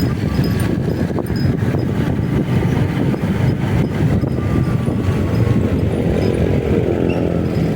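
Motorcycle running under way, a steady dense rumble; a clearer, even engine note stands out near the end.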